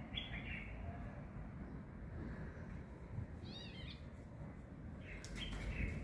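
Small birds chirping outside in short bursts, with a quick run of rising-and-falling chirps in the middle, over a low steady rumble.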